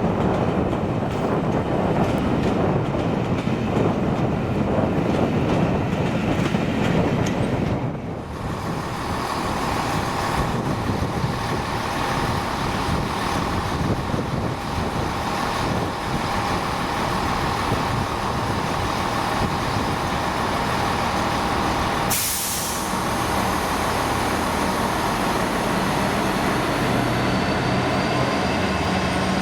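A train passing on the railway with a dense rumble. After about eight seconds it settles into a steadier running hum with held tones. About two-thirds of the way through there is one short, sharp hiss.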